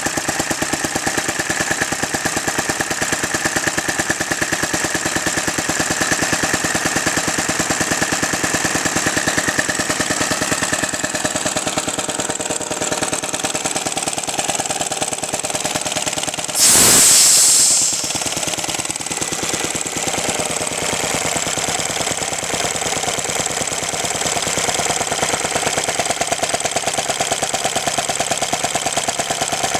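Antique Lindsay air compressor's single-cylinder Merkel motor-wheel engine running steadily with a fast, even beat. Just past halfway a loud hiss of escaping air cuts in for a little over a second, then the engine runs on.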